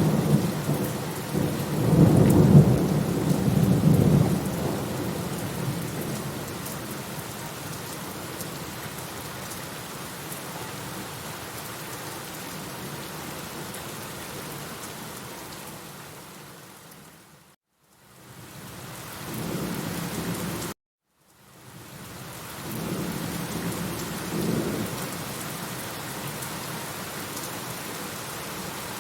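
Steady heavy rain with rolling thunder: a loud low rumble in the first few seconds, and more rumbles past the middle. The sound briefly fades out about two-thirds of the way through, then cuts to silence for about a second before the rain resumes.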